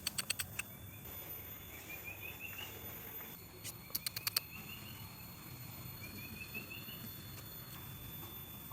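A bird repeatedly singing a short phrase of quick notes that climb in pitch, with a steady high insect-like hum underneath. Two short runs of quick clicks, one at the start and one about four seconds in.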